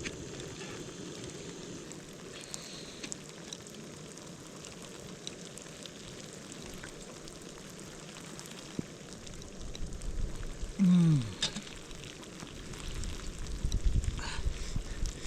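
Steady hissing, typical of a lit camping stove burner or wet snow falling on fabric. A short falling vocal sound comes about eleven seconds in, and low rumbles and knocks grow louder over the last few seconds.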